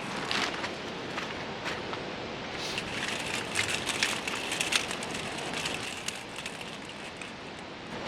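Fabric rustling and crackling with many small clicks and light knocks, as a camping tarp and its fittings are handled during setup. It is busiest in the middle stretch.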